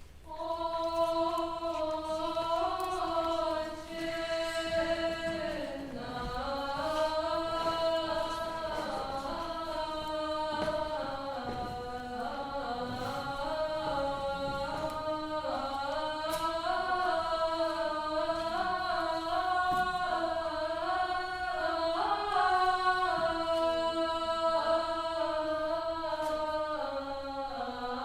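Unaccompanied chant-like singing of a single melodic line, in a high voice register, moving slowly between held notes. It begins about half a second in.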